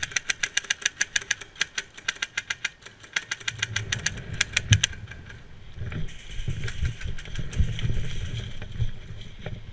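Airsoft electric rifle firing rapid full-auto bursts, an even chatter of shots with a short break near the middle; it stops about five seconds in, leaving hiss with scattered low thumps and scuffs.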